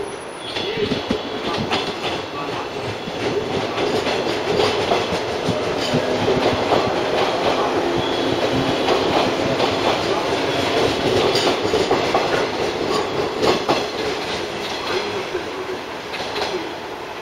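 JR West 113 series electric train pulling out and passing close, its wheels clacking over rail joints as it runs. The sound builds as the cars go by and eases off near the end.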